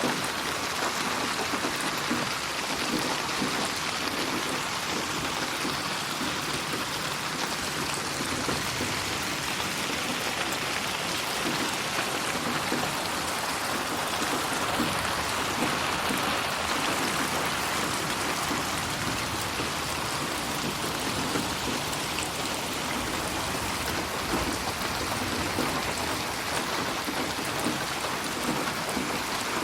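Steady rain falling, a dense even hiss of many drops pattering on a surface, with no thunder or breaks.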